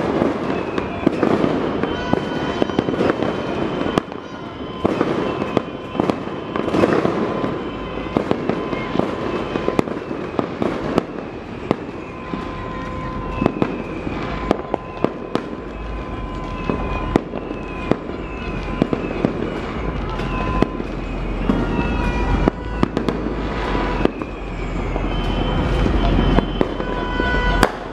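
Neighbourhood New Year's fireworks and firecrackers going off without a break: many sharp bangs near and far over a continuous crackle. Thin steady tones and short falling whistles run through it.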